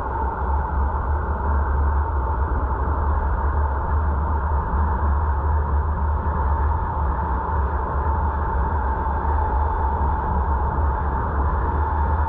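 Steady road and wind noise of a car driving along, heard from inside the cabin: a constant low rumble under an even rush, with a faint steady hum.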